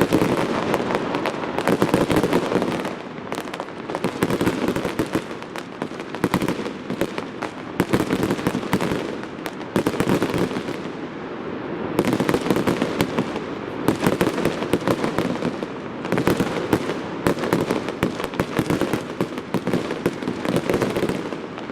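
Fireworks display going off continuously: dense bangs and crackling, with louder volleys about every two seconds.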